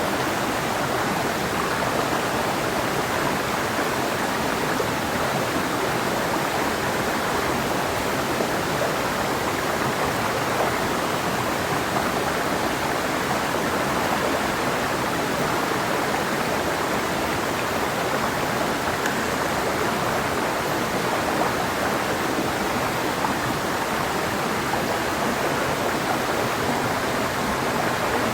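Clear mountain river flowing over rocks: a steady, even rushing of water.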